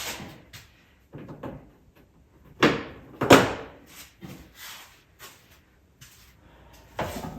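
A run of knocks and clatters from parts being handled and set down during reassembly work, the two loudest close together about three seconds in and another near the end.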